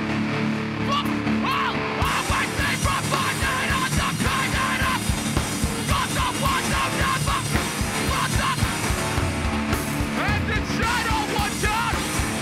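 Hardcore band playing live: distorted guitar chords held until the drums come in fast about two seconds in, with shouted vocals over the top.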